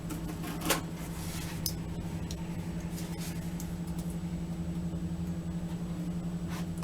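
A few light clicks and rustles from handling a plastic action-figure package, the clearest about a second in and again near two seconds, over a steady low hum.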